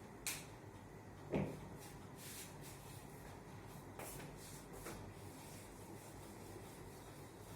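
Two short knocks, the second and louder about a second and a half in, then faint scattered ticks and light scraping over a low steady room hum.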